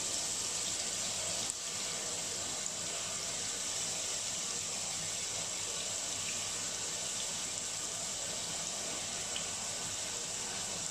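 Chopped onions, curry leaves and green chillies sizzling steadily in hot coconut oil in a steel pot, with a few faint crackles.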